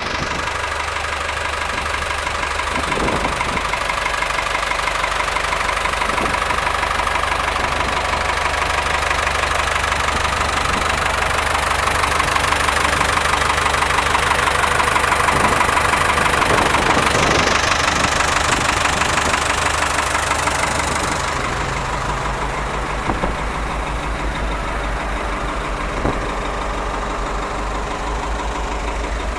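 Ford 5610 tractor's four-cylinder diesel engine idling steadily. A hiss over it fades about two-thirds of the way in, leaving the low, even beat of the engine, with a few brief clicks.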